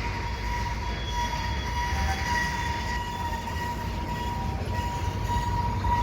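Freight cars of a train rolling past with a steady low rumble, and a continuous high-pitched wheel squeal held on one pitch throughout.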